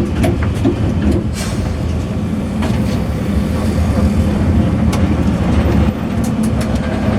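Bus running, a steady low rumble with scattered short clicks and rattles.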